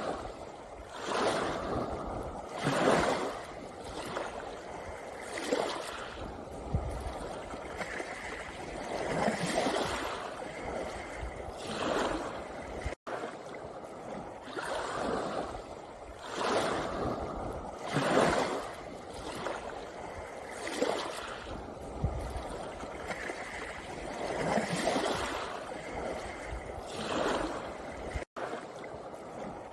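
Sea waves breaking and washing over a pebble beach, surging in repeatedly every two to three seconds. The sound cuts out for an instant twice.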